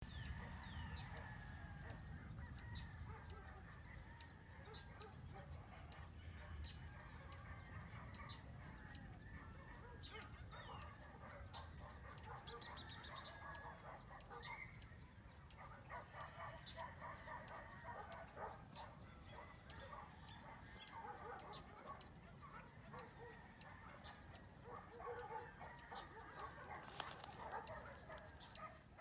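A flock of birds calling over one another, with many short overlapping calls throughout and scattered sharp ticks.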